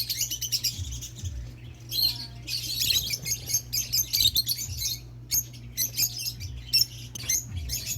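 Lovebirds chirping in quick, high-pitched bursts, a fast run of chirps at first and then scattered calls, over a steady low hum.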